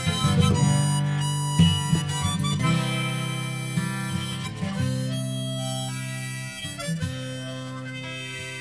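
Instrumental folk music: a harmonica playing long held notes over acoustic guitar.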